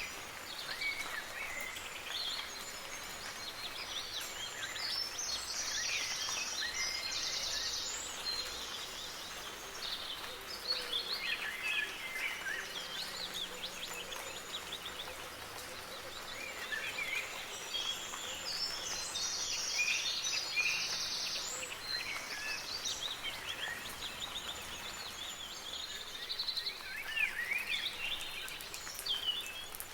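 Several songbirds chirping and trilling in quick, overlapping calls over a steady hiss of soft rain.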